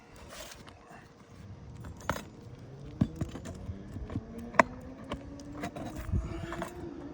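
Sharp metallic clinks and taps of a hand tool working roofing nails out from under asphalt shingles, a few separate strikes with the loudest about two thirds of the way through. A faint low hum rises slowly in pitch underneath.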